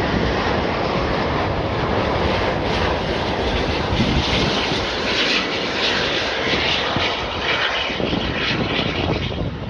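Airbus A350-1000 with Rolls-Royce Trent XWB jet engines landing close by: a loud, steady jet engine and air noise that begins to fade just before the end. The touchdown is smooth.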